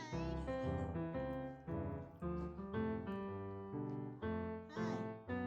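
Background piano music, notes played in a steady stream of short chords and melody.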